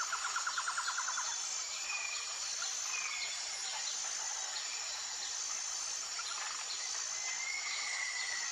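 Tropical forest ambience: a steady high-pitched insect chorus runs throughout, with a fast pulsed trill that stops about a second in. Birds give a few short whistles, then a longer, slightly falling whistle near the end.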